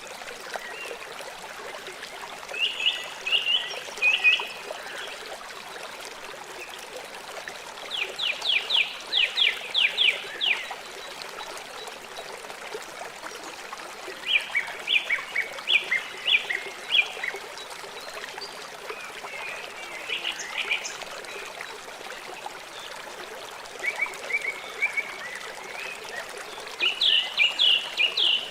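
River water flowing steadily, with a small animal's quick series of high chirps breaking in every five or six seconds.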